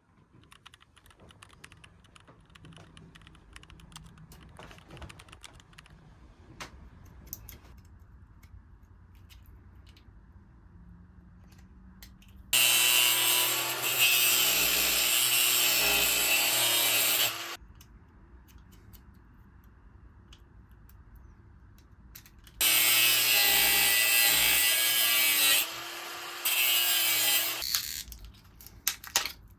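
A handheld power tool runs in two bursts of about five seconds each, its motor pitch wavering under load, with a short break partway through the second burst. Before the first burst there is faint tapping and rubbing.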